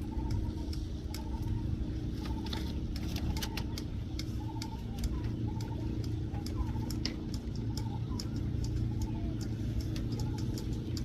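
A vehicle engine running with a steady hum. Over it, a short warbling call repeats about once a second, and there are scattered sharp clicks.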